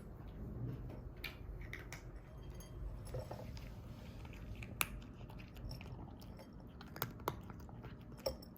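A cat eating, chewing its food with irregular small clicks and crunches, one sharper click about halfway through and a few more near the end.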